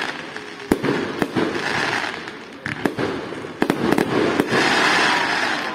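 Fireworks display: several sharp bangs of shells bursting, mixed with hissing crackle, building to a loud, longer crackling burst near the end.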